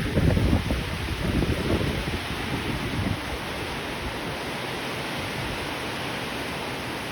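Steady rain falling, an even hiss. Low, gusty rumbling sits under it for the first three seconds, then dies away.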